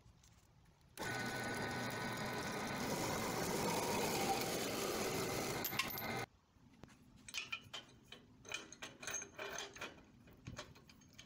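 A power saw cutting metal spacer stock runs steadily for about five seconds and stops suddenly. After it come light metallic clinks and taps, several a second, as metal parts are handled.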